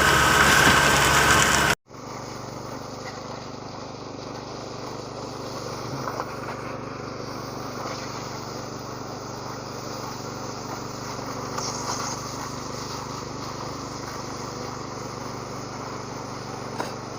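Heavy engine running at a construction site. A loud stretch carrying a steady high whine cuts off abruptly about two seconds in, and a quieter, steady engine hum follows.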